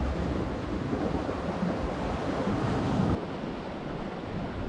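Ocean surf washing against the shore with wind buffeting the microphone, a steady rushing noise that drops a little in level about three seconds in.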